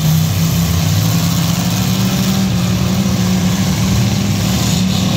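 Engines of several demolition derby cars running and revving together: a loud, steady low engine sound.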